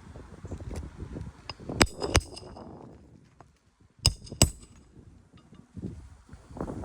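A hammer striking a metal roof snake tool to set nails under an asphalt shingle: two pairs of sharp, ringing metal-on-metal strikes, about two seconds apart.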